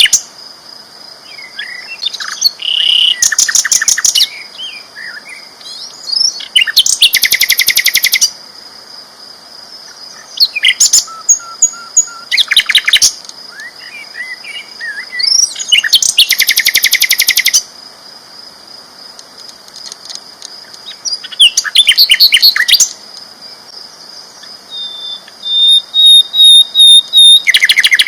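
Sikatan londo (a flycatcher kept as a songbird) singing loudly: bursts of very fast rattling trills lasting one to two seconds, every few seconds, with shorter scattered chirps between them. A steady thin high whine runs under the song, and near the end comes a series of quick clipped repeated notes.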